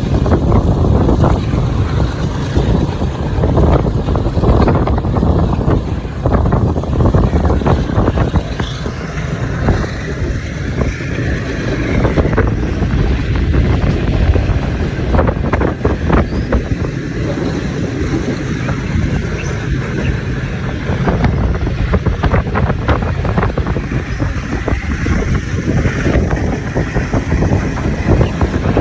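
Passenger train running, a loud steady rumble with rattling all through it, and wind buffeting the microphone.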